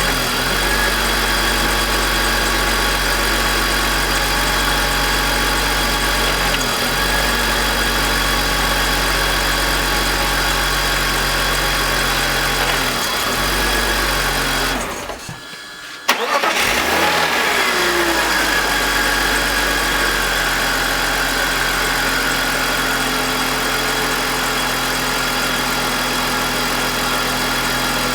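BMW M52TU 2.5-litre inline-six idling. About halfway through it stops, then is cranked and catches with a sharp start, and settles back to idle. With the VANOS connected the owner hears a grinding noise with RPM drops, which he suspects comes from the VANOS.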